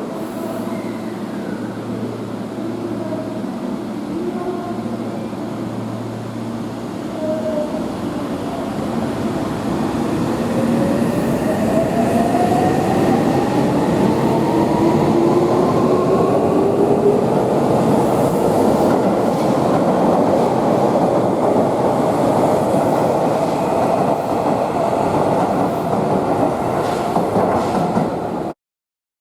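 Seibu 6000 series electric train pulling away: the traction motors' whine rises steadily in pitch as it gathers speed and grows louder, over the noise of the wheels on the rails.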